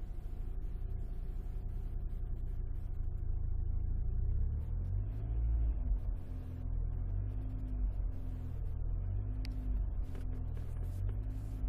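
Alfa Romeo 156 on the move, heard from inside the cabin: a steady low rumble of engine and road. From about halfway a short low tone repeats in pulses over it.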